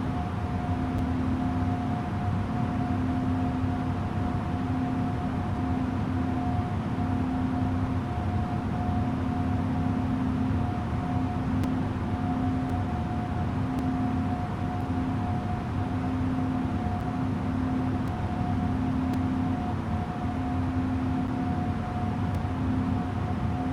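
Airbus A330-900 airliner's Rolls-Royce Trent 7000 turbofan engines running steadily: an even rushing noise with a low hum and a steady mid-pitched tone over it.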